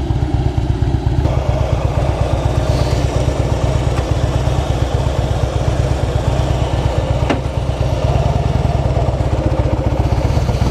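Motorcycle engine running steadily under way, heard from the rider's helmet, with wind noise coming through a visor that isn't sealing on one side. The wind noise grows about a second in.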